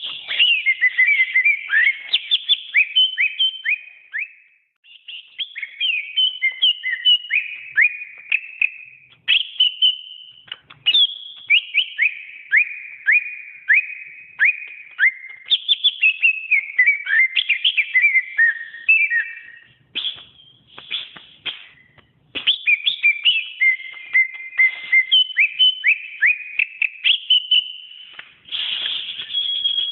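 Cucak ijo (green leafbird) singing a long, varied song of rapid whistled notes. Most notes slide downward in quick runs, and there are a few short pauses.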